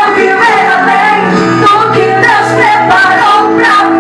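A woman singing a Pentecostal worship song, loud, over amplified instrumental accompaniment.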